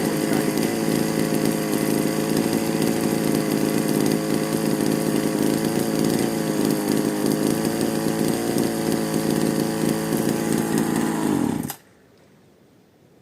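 Bernard Moteurs W14 engine running steadily at a fast, even speed, then shut off about eleven and a half seconds in, stopping suddenly.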